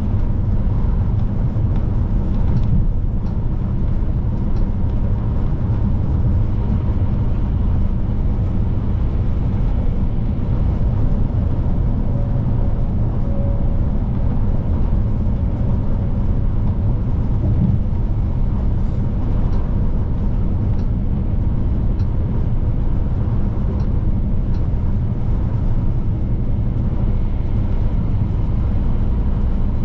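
Scania P310 truck's diesel engine and tyre noise, a steady low drone while driving, with no change in pace.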